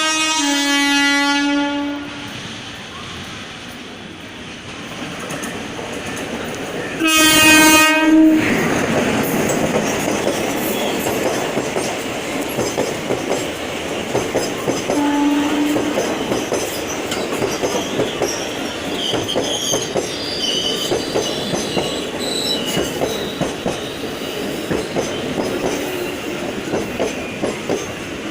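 WCAM/2 electric locomotive's horn sounding a blast near the start, a louder one about seven seconds in and a short toot around fifteen seconds. Then the express train passes, its wheels clattering steadily over the rail joints, with a few faint wheel squeals in the second half.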